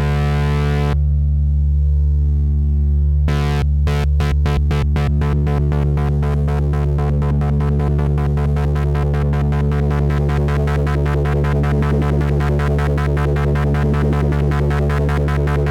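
Recursive Machine drone synthesizer playing a steady, deep drone rich in overtones; about a second in the upper overtones fall away, and from about three seconds in a rapid pulsing sets in and speeds up steadily as it is tweaked.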